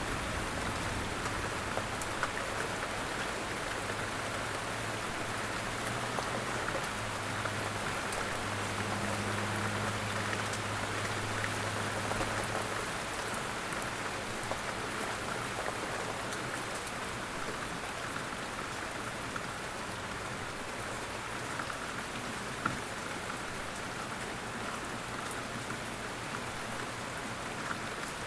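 Steady rain falling, an even hiss with scattered individual drop ticks and one sharper tick about two-thirds through. A faint low hum sits under it for the first half.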